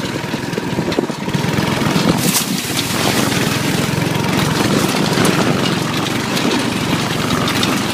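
Off-road go-kart's small engine running steadily as the kart drives along a dirt trail.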